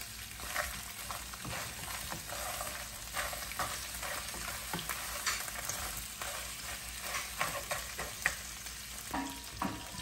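Blue crabs frying in hot oil in a nonstick pan: a steady sizzle, with frequent short scrapes and knocks as they are stirred and turned with a silicone spatula.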